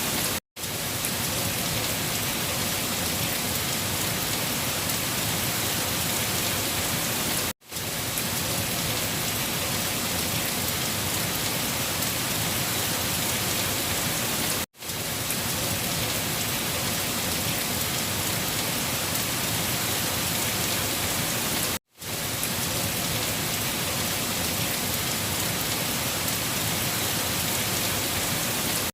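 Steady, even hiss of heavy rain. It cuts out to silence for a split second four times, at even spacing about every seven seconds.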